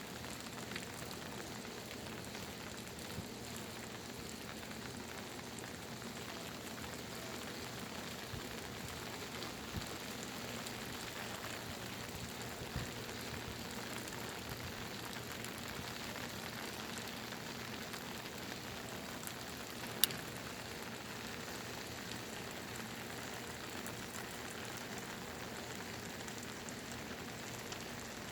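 Steady monsoon rain falling: an even hiss with scattered single drops ticking, and one sharper tap about two-thirds of the way through.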